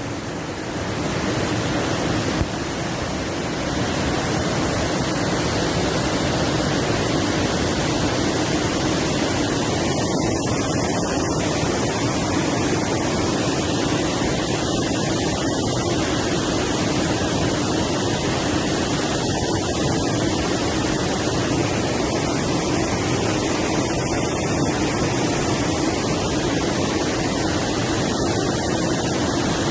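Waterfalls and river water rushing in a steady, even noise that builds over the first few seconds and then holds level.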